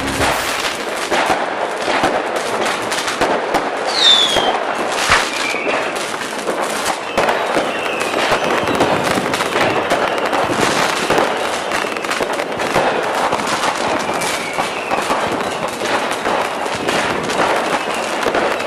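Fireworks going off continuously in a dense crackle of pops and bangs, with whistling shells falling in pitch, the loudest about four seconds in and fainter ones later.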